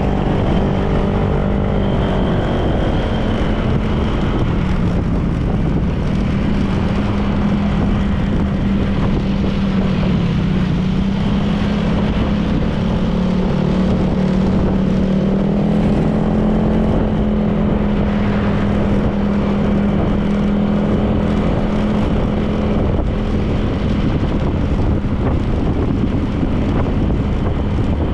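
Honda PCX 160 scooter's single-cylinder engine running under way, its note holding fairly steady with small rises and dips, over wind and road noise.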